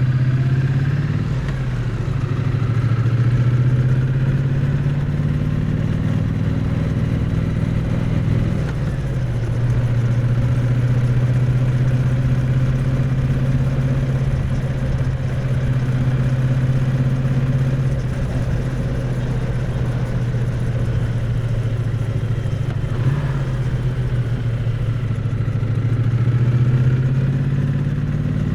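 Triumph Bonneville T100 parallel-twin engine and exhaust while riding, heard close up at the exhaust. The engine note holds steady for long stretches, then drops in pitch sharply about a second in, at about eight and a half seconds, and again around twenty-three seconds before climbing back.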